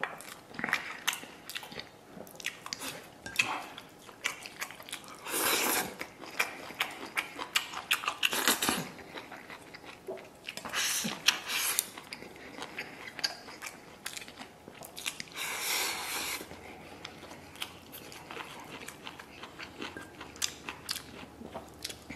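Close-up eating sounds: a person chewing and biting mouthfuls of rice and a hot green chili pepper, with many short sharp clicks and several noisy stretches of about a second each.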